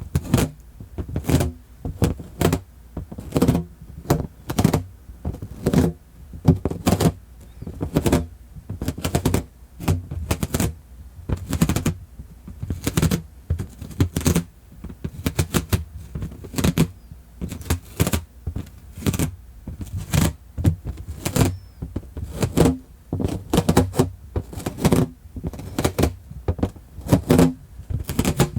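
A fat inflated rubber balloon being squeezed, rubbed and tapped close to the microphone, squeaking and thumping in repeated short strokes, roughly one to two a second.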